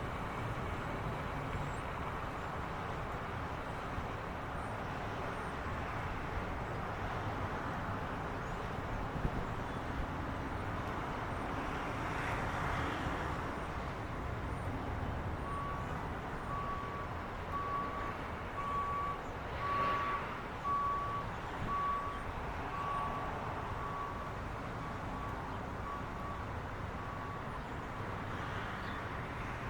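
A vehicle runs steadily. About halfway through, a back-up alarm starts beeping about once a second, a dozen or so beeps, then stops near the end.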